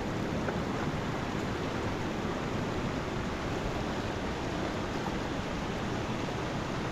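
Mountain river rushing past in a steady, unbroken wash of flowing water.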